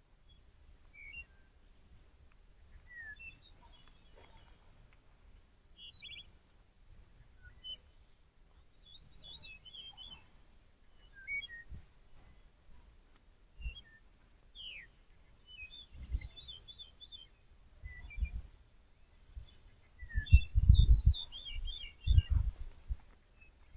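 Songbirds chirping in short high calls and quick slides throughout. Low dull thumps start past the middle and grow loudest near the end, where they are the loudest sound.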